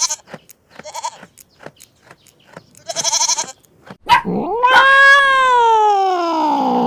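A goat bleating in a few short, quavering calls. About four seconds in, a cat starts one long yowl that slides down and then rises and falls in pitch.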